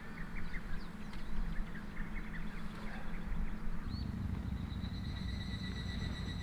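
Outdoor ambience: scattered short bird chirps, then about four seconds in a steady high-pitched whine comes in over a louder low rumble.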